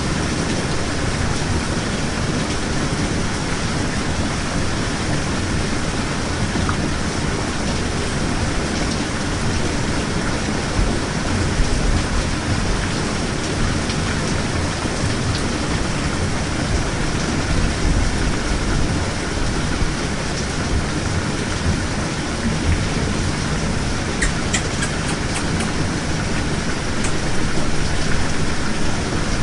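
Steady rain falling, a dense even hiss, with a few low rumbles of distant thunder swelling and fading. A few faint clicks come near the end.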